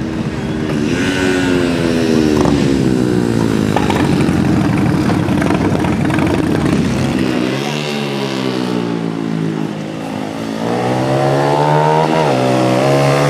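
Pit bike's small single-cylinder engine revving hard, its pitch climbing, dropping back and climbing again as the rider accelerates and shifts gears.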